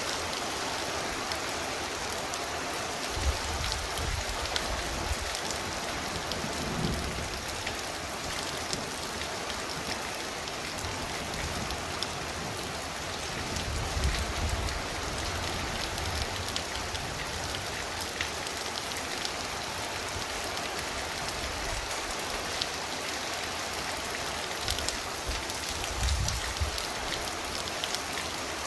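Heavy rain falling steadily, a dense patter of drops with a few short low rumbles swelling up at intervals.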